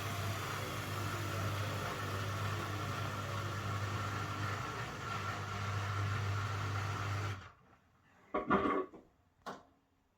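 Beko washing machine running at the end of its cycle with a steady low hum, which cuts off abruptly about seven seconds in. A few short knocks follow, the loudest just after it stops.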